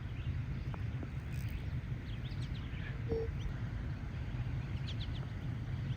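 Outdoor ambience: a steady low rumble with faint, scattered bird chirps and one brief short tone about three seconds in.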